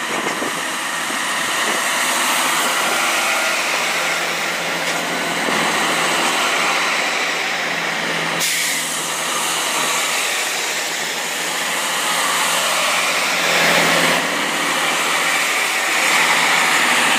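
Great Western Railway Turbo diesel multiple unit passing close by through the station, a loud steady noise of wheels and air that barely changes for the whole stretch.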